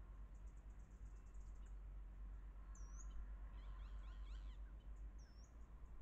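Faint calls of small wild birds: a rapid high twitter in the first second or two, a cluster of quick down-slurred chirps midway, and two short high whistles, over a steady low rumble.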